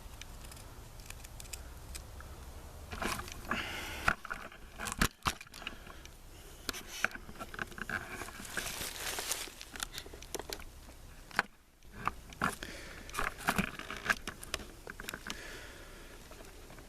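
Knife trimming a knot off a piece of wood: irregular scraping and shaving strokes with sharp clicks, starting about three seconds in and coming in clusters.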